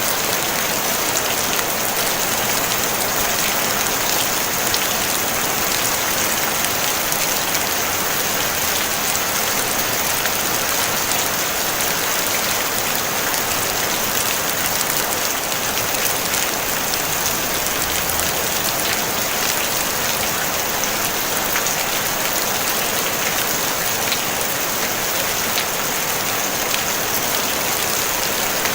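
Steady rain falling on a tin roof, an even hiss of many drops with no thunder.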